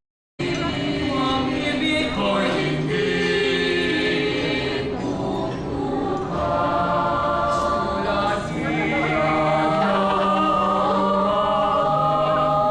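A choir singing a slow song in long held notes, after a brief dropout at the very start.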